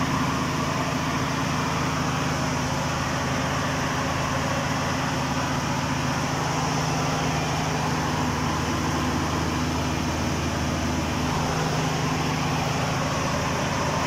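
Steady, even running hum of a Ford full-size SUV/pickup at idle, heard close to its front end.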